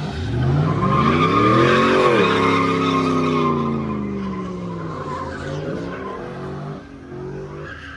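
A truck engine revving hard, its pitch climbing for about two seconds and then falling off slowly as the revs drop. A hissing squeal rides over the top while the revs are high.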